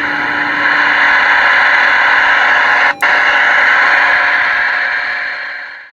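Steady radio static hissing from a speaker, with a brief dropout about three seconds in, then cutting off suddenly.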